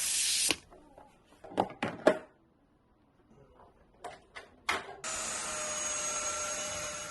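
LG CordZero A9S vacuum motor switched on about five seconds in and running steadily with a whine over its rushing airflow. Before it, a short hiss and a few sharp clicks.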